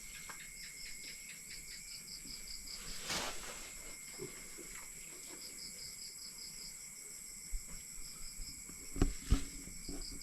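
Insect chorus: a rapid, evenly pulsed chirping over a steady high buzz, running throughout. A brief rustle about three seconds in and a few low thumps near the end.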